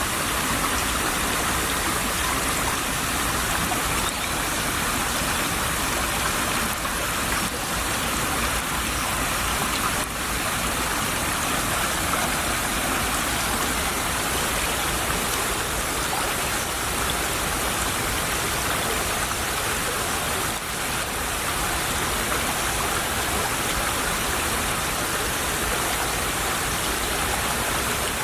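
Shallow stream of water trickling and babbling steadily over stones.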